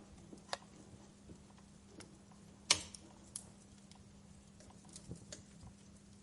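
Wood fire crackling in a fireplace: scattered small snaps and one loud pop a little before halfway, over a faint steady low hum.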